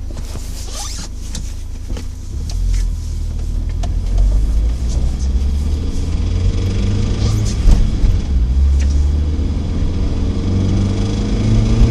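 ZMZ-409 inline-four petrol engine accelerating under load, a deep rumble that swells a couple of seconds in and then climbs in pitch as the revs rise. Scattered sharp knocks sound through it: the knock the engine makes under way.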